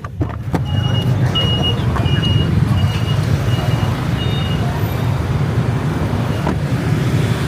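Busy street traffic with vehicle engines running as a steady rumble. Over it, a run of short, high-pitched electronic beeps comes about twice a second for the first few seconds and then stops.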